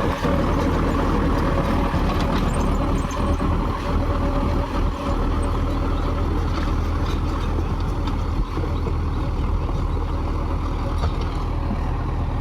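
Mahindra 585 4WD tractor's diesel engine running steadily under load, driving a 6-foot Mahindra Supervator rotavator.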